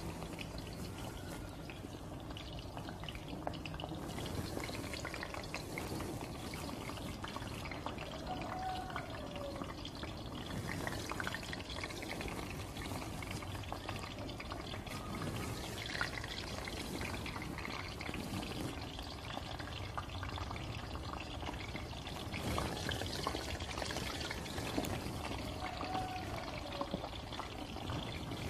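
Batter-coated paneer cubes sizzling and crackling steadily in hot oil in a karahi.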